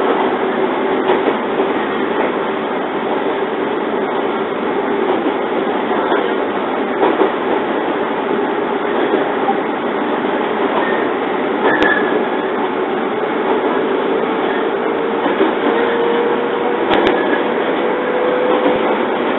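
JR 115 series electric train heard from inside the car while running: a steady rumble of wheels on rail, with a faint whine that climbs slowly in pitch and a few sharp clicks.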